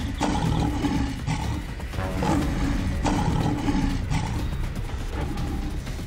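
A tiger's roars and growls, a cartoon sound effect, over steady background music.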